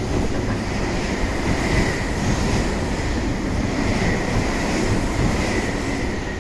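Non-stopping train passing through the station at speed: a steady loud rush of wheels and air with a faint high whine.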